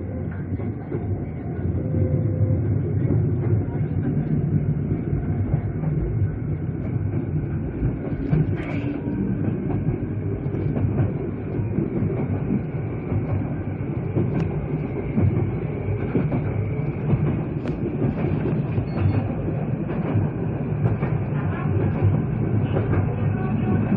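Toyama Chiho Railway electric train running along the track, heard from inside the car: a steady low rolling noise of wheels on rail, with an occasional sharp click.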